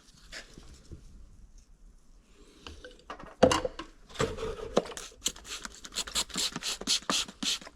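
A sharp knock, then a quick run of rhythmic scraping strokes, about five a second, from hand work on the Yamaha Tri-Z engine case.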